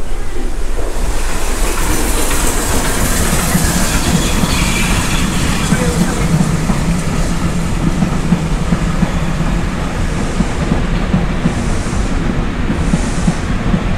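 Steam-hauled passenger train passing close by: a loud, steady rumble of carriage wheels running on the track, with hissing in the first half and two short high bursts near the end.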